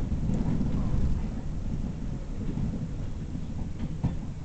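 Steady low rumble of a train running along the track, heard from inside a passenger carriage, with a sharp knock just after the start and another near the end.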